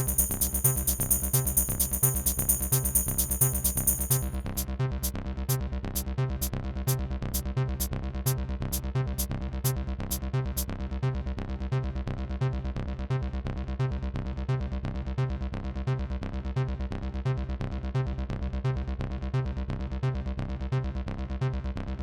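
Acid house music from a Roland P6 sampler, its melodic sounds sampled from a Roland T8 and S1: a steady pulsing kick and bass line. Busy hi-hats thin to single ticks about four seconds in, and these drop out about ten seconds in.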